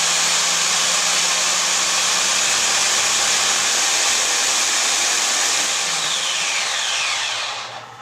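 A small electric motor tool or blower running steadily with a loud rushing hiss over a low hum. Near the end it is switched off, its pitch falling as it winds down before stopping.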